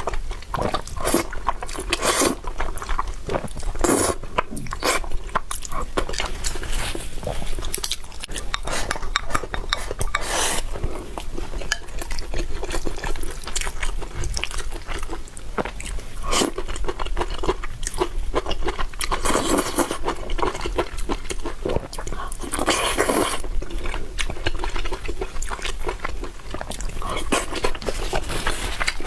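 Close-up eating sounds of a mukbang noodle meal: chewing and biting, with many short clicks of utensils against a bowl and a few longer noisy bursts.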